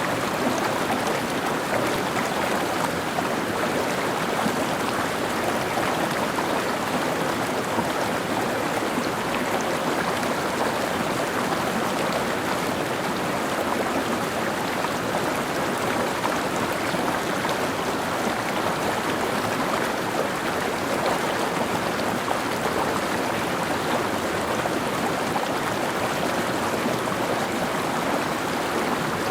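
Mountain stream flowing steadily over rocks, a constant rushing and babbling of water.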